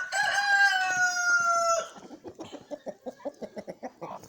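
A native Nigerian rooster crows one long, slightly falling call lasting about two seconds. It is followed by a quick run of short, soft clucks from the flock.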